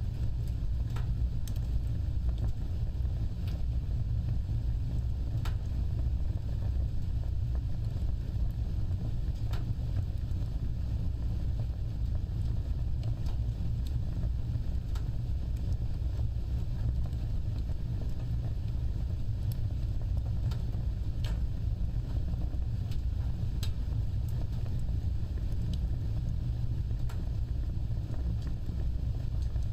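An open fire burning: a steady low rumble of flames with scattered, irregular sharp crackles and pops.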